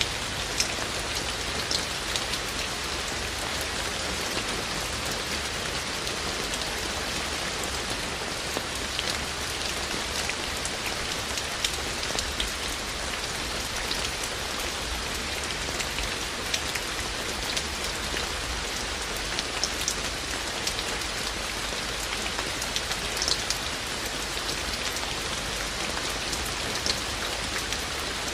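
Steady rain falling, an even hiss with scattered louder, sharper raindrop hits standing out throughout.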